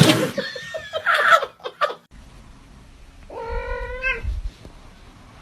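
Domestic cat caterwauling in a loud, harsh cry, followed by a second, separate meow about a second long.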